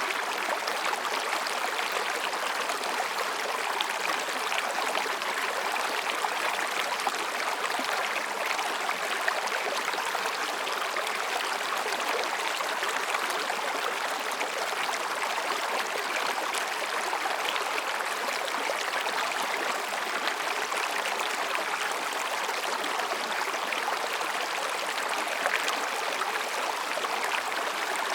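Mountain stream running over and between rocks: a steady, even rush of water.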